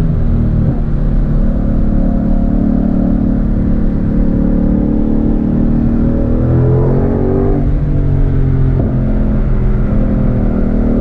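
2020 Ford Mustang Shelby GT500's supercharged 5.2-litre V8 pulling hard at track speed, heard from inside the cabin with road noise. The engine note holds steady, climbs in pitch about six seconds in, then falls back near eight seconds.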